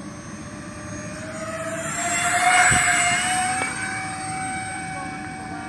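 Electric ducted fans of a radio-control model Airbus A330-600 whining as the model flies past, growing louder to a peak about halfway through and then fading away.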